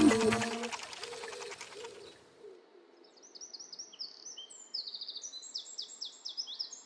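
Background music fades out over the first couple of seconds. Then birds chirp: a busy run of quick, high, falling chirps.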